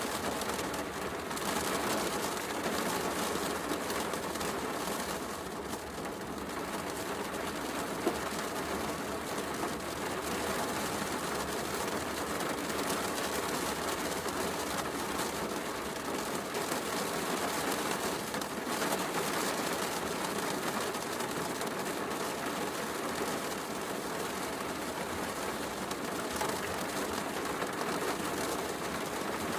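Steady heavy rain mixed with a crackling wood fire, with one sharp pop about eight seconds in.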